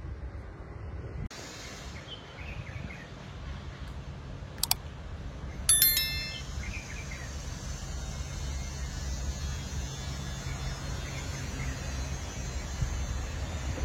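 A single short metallic chime rings about six seconds in, several bright tones at once, just after a sharp click. Under it runs a steady low rumble of background noise.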